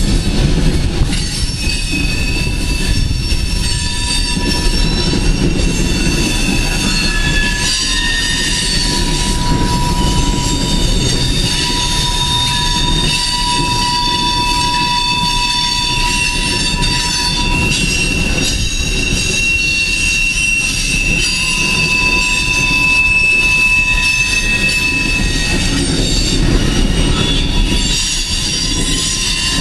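Loaded coal train's hopper cars rolling past: a steady rumble of wheels on rail, with several long, high wheel-squeal tones that drift in pitch and fade in and out.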